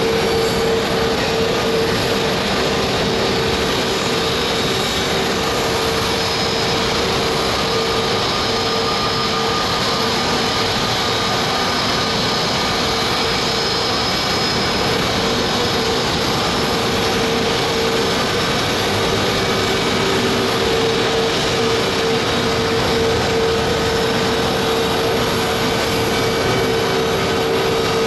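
Embraer 175 regional jet running steadily on the ground at idle during push-back: an even jet rush with a constant low whine that does not rise or fall.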